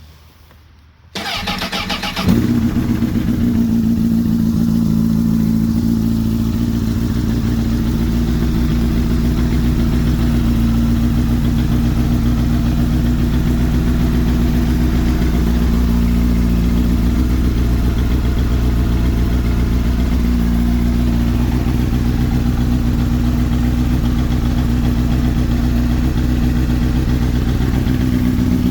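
2004 Honda CBR1000RR's inline four-cylinder engine cold-started: the starter cranks for about a second, the engine catches about two seconds in, and it settles into a steady idle.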